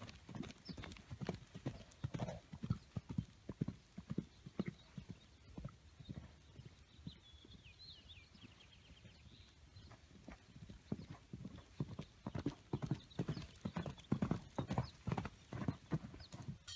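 Hoofbeats of a yearling Morgan colt moving on the ground: a run of dull hoof thuds, coming faster and heavier in the last few seconds.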